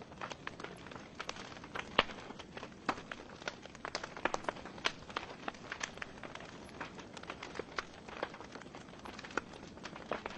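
Wood fire burning in a fireplace: irregular crackles and pops over a soft steady hiss, with one sharp pop about two seconds in.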